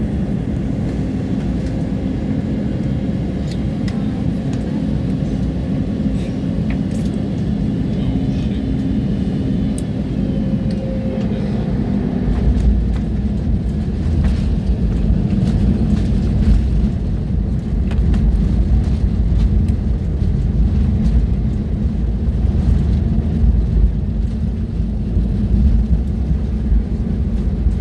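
Airliner cabin noise: a steady engine hum, then about twelve seconds in a heavy low rumble sets in and runs on, the sound of the wheels touching down and rolling on the runway.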